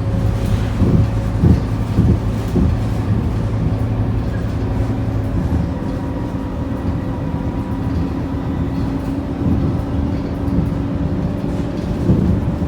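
Interior of a Scania K230UB city bus: its diesel engine running as the bus drives, with road noise and short knocks and rattles from the body. A low engine tone stops about five and a half seconds in while a higher hum carries on.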